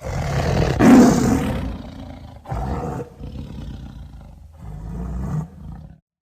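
Fictional dragon's roar sound effect: a deep roar that starts suddenly and is loudest about a second in, followed by two weaker swells, stopping about six seconds in.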